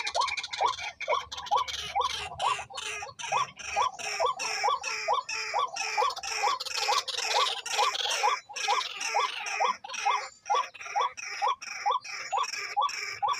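A bird calling in a fast, regular series of short notes, about three a second, without a break.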